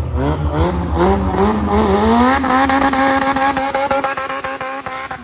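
Honda Civic's B-series four-cylinder engine at full throttle, revs climbing in a quick series of short rises, then held steady at high rpm for a few seconds before dropping away sharply near the end.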